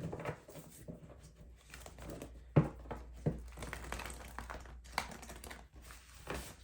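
Tarot cards being shuffled and handled: a string of light, crisp clicks and rustles, with a few sharper snaps.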